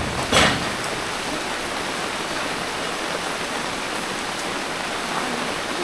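Steady rain falling, a dense even hiss, with a brief louder rush of noise just after the start.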